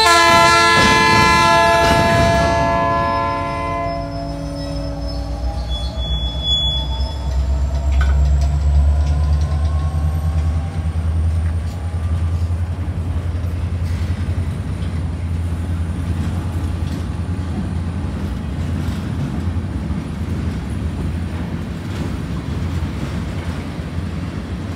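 A locomotive's multi-chime air horn sounds one long blast right at the start, lasting about four seconds, its notes dropping in pitch near the end. Then a freight train's cars roll past with a steady low rumble and the clack of wheels over the rail joints.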